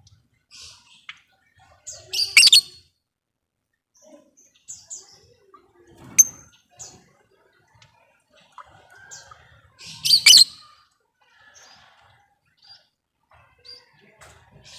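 Lovebirds chirping and chattering in short high calls, with two loud harsh bursts of calls about two seconds in and about ten seconds in, and a single sharp call near the middle.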